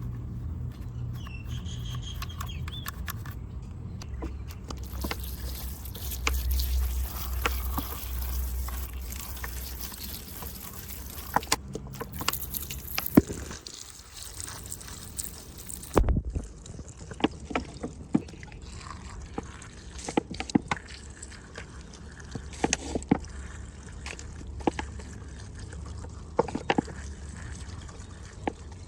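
Water trickling and dribbling during the washing of a small diecast model car, with many small sharp clicks and taps and a low steady rumble underneath.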